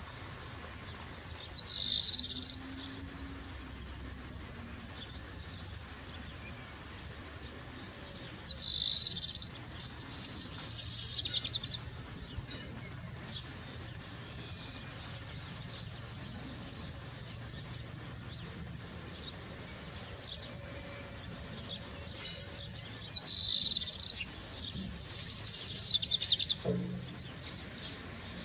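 A bird calling loudly in three bouts: each bout opens with a short call that rises in pitch, and in the second and third it is followed by a quick run of short, high notes.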